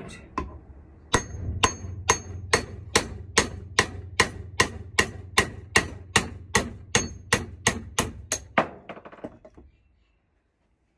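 Hammer tapping a small punch to drive the ball joint out of a Mark 1 Mini's suspension trumpet, with steady strikes about two and a half a second and a faint metallic ring on some. A few weaker taps near the end, then it stops.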